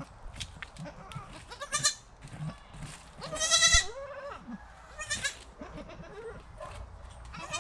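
Goats bleating: four bleats, the loudest and longest about three and a half seconds in with a trembling quaver, among scattered light clicks.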